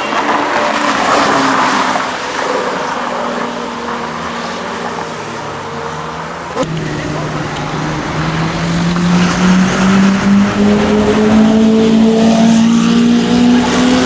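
Lamborghini Murciélago V12 through an IPE exhaust: a loud rush of exhaust noise at first, then the engine note settles lower. After a sharp click about halfway, the engine note climbs steadily as the car accelerates.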